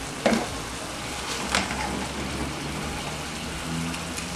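Cooking oil sizzling steadily around pieces of chicken breast frying in a pot, with a couple of sharp clicks of a spoon against the pot as the chicken is scooped out.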